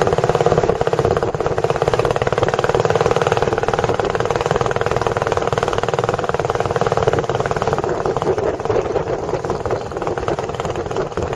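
Tourist boat's engine running steadily with a fast, even putter, under way on the lake.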